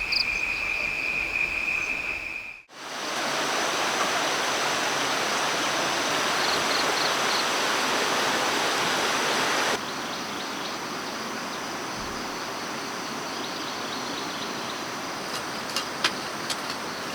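Steady rush of water. A steady high insect buzz is heard over it for the first couple of seconds. The sound cuts out for a moment about three seconds in, and drops a little in level about ten seconds in.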